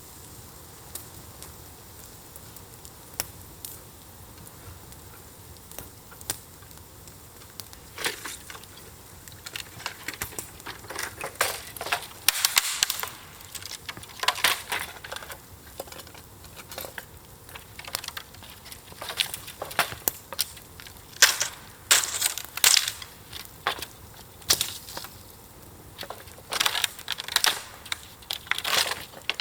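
Campfire hissing with occasional sharp pops, then, from about eight seconds in, repeated bursts of crunching and snapping of dry kindling being broken and handled as more fuel is fed to the embers.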